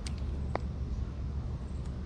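Steady low rumble of wind on the microphone, with scattered light clicks and one brief chirp about half a second in.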